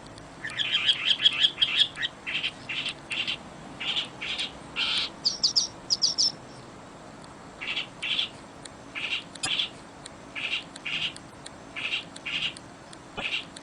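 Birds chirping and calling: short, repeated notes come a second or so apart, with a quick higher trill about five seconds in, over a faint steady hiss.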